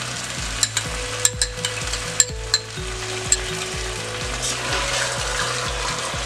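Chicken and masala sizzling in an open pressure cooker as curd is stirred in, with a spoon clicking sharply against the pot several times in the first half.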